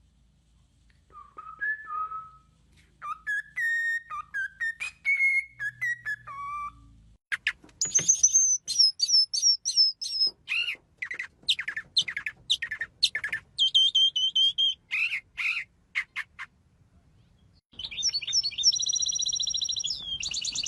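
Birds singing and calling: short whistled phrases first, then from about seven seconds a quick run of high chirps and trills. After a short gap near the end, a fast high trill begins.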